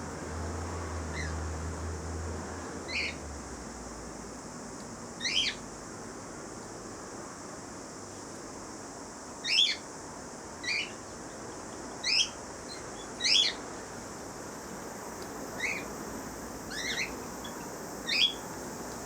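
Turquoise parrots giving short, high-pitched chirping calls, about ten of them spaced irregularly a second or more apart.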